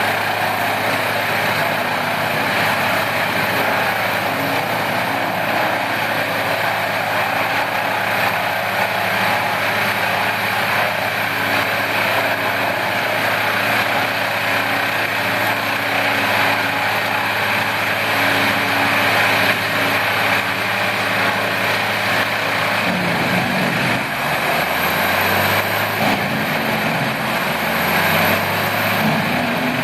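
Large industrial wood chipper running hard, a dense, steady roar over its engine's drone; the engine note shifts and wavers in the last few seconds.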